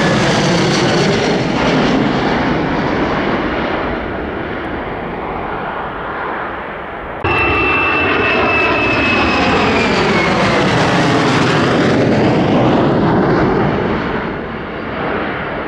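Lockheed Martin F-35A's Pratt & Whitney F135 turbofan passing by, loud, its high whine falling in pitch as it goes past and fades. About seven seconds in the sound cuts abruptly to another loud pass, again with a high whine slowly falling.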